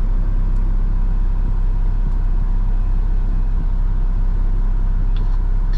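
Front-load garbage truck's engine idling steadily, a low rumble heard from inside the cab.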